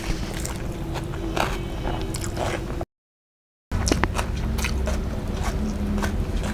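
Close-up eating sounds: wet chewing and squishing with irregular small mouth clicks and crunches of food. The track drops to silence for under a second about three seconds in.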